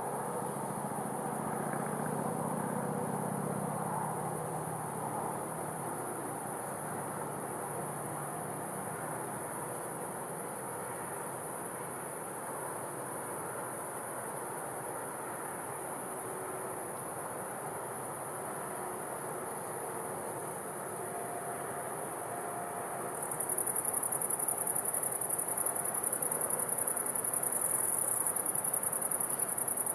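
Evening chorus of crickets: a steady, continuous high-pitched trill that grows clearly louder about 23 seconds in, over faint background ambience.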